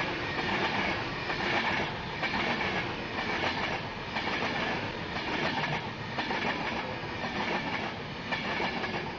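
Class 390 Pendolino electric train passing through the station at speed: a loud, steady run of wheels on rail with a regular clickety-clack as the bogies cross the rail joints.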